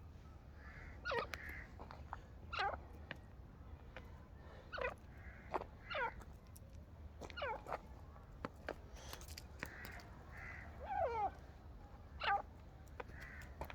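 Fowl calling again and again: short, sharp calls that fall steeply in pitch, about one every second or so, with softer chirps in between.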